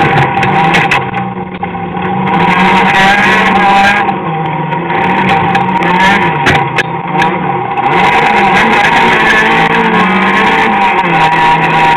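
Citroën AX autocross car's engine heard from inside the cabin, revving hard and easing off through the corners, the engine note dipping twice before holding high and steady near the end. A scatter of sharp clicks and knocks comes through about a second in and again midway.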